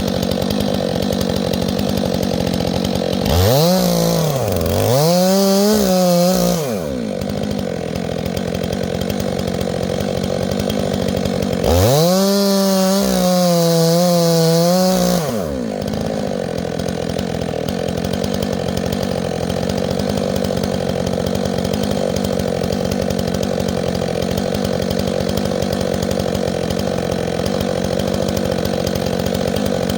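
Gas chainsaw engine idling steadily, revved up twice: two quick revs about three to seven seconds in, and one longer rev around twelve to fifteen seconds, each dropping back to idle.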